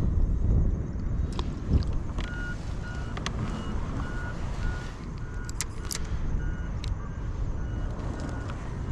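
A steady low rumble of wind on the microphone, with a run of short, evenly spaced electronic beeps, about two a second, starting about two seconds in and stopping near the end. A few sharp clicks are scattered through it.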